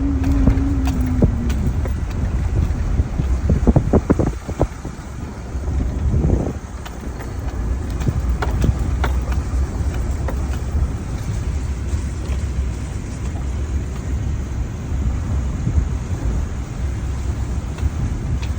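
One-ton pickup truck driving slowly over a rough field: a steady low engine and tyre rumble, with rattles and knocks as it bounces over the ground, a cluster of them about four seconds in.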